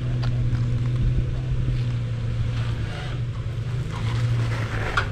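Off-road vehicle's engine running steadily at low revs while it crawls over rocks, with a few light knocks.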